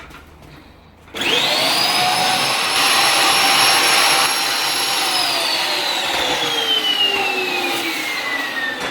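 Vacuum cleaner switched on about a second in, its motor quickly whining up to a steady high pitch over a loud rush of air while it sucks soot out of a stove firebox. For the last few seconds the whine falls steadily in pitch.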